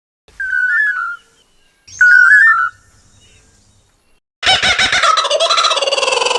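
Animal calls: two short warbling, whistle-like bird calls about a second apart, then a loud, rapidly pulsing call that starts about four and a half seconds in.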